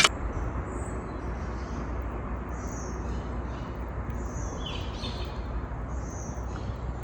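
Small birds chirping, short high calls scattered through, over a steady low background rumble.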